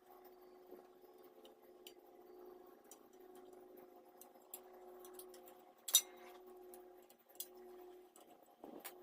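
Light metal clicks and clinks of hand tools working on flywheel bolts, with one sharper click about six seconds in, over a steady hum.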